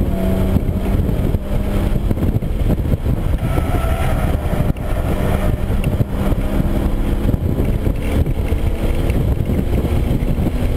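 The 3.8-litre V6 of a 2013 Hyundai Genesis Coupe R-spec pulling under hard acceleration at track speed, heard from inside the cabin over a dense road rumble. There is a brief dip in the sound about halfway through.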